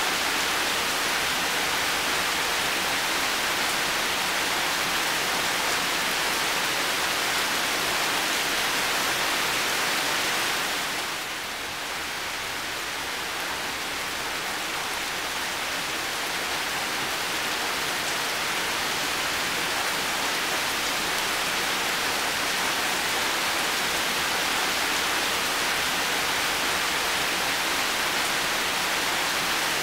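Heavy rain falling steadily, a dense even hiss, that dips in loudness for a moment about eleven seconds in before carrying on as before.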